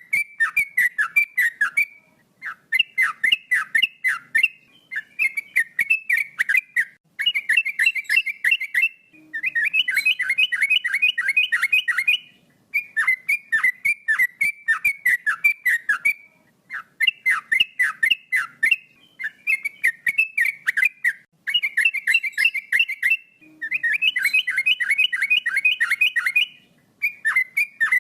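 Male yellow-vented bulbul (trucukan) singing loud, repeated phrases. Each phrase is a quick run of whistled notes that each drop in pitch, with short pauses between phrases. A couple of the phrases come out faster and denser.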